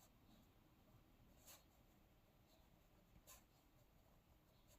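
Near silence, with two faint pen-on-paper scratches, about a second and a half in and again past three seconds.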